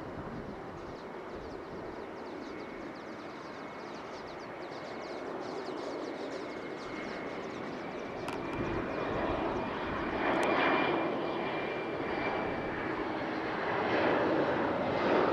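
Airbus A321's CFM56 jet engines running as the airliner comes in to land, growing louder as it nears, with a steady high whine through the middle.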